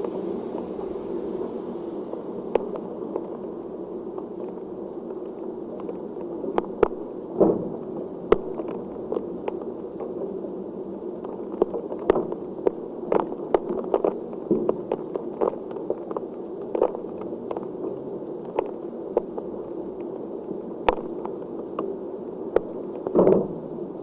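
Heavy rain falling steadily, with irregular sharp taps of large drops or drips striking a nearby hard surface, several a second at times.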